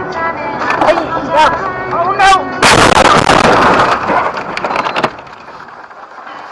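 Music playing, then about two and a half seconds in a very loud crash as a pickup truck is T-boned in a side-on collision. The crash noise lasts about two and a half seconds and stops abruptly.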